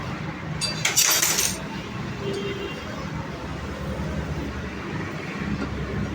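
A brief metallic clink and jangle of small metal parts, about a second in, over a steady low background hum.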